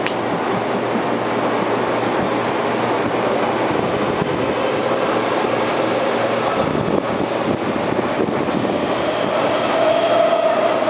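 MTR East Rail electric multiple-unit train running along the platform: a steady rumble of wheels on rail, with a faint motor whine that climbs slightly in pitch in the second half.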